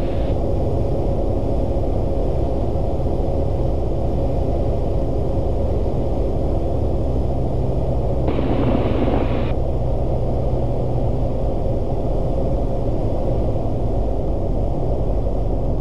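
Cessna 172S's four-cylinder Lycoming engine and propeller drone steadily as heard through the cockpit intercom, with a brief burst of hiss about eight seconds in.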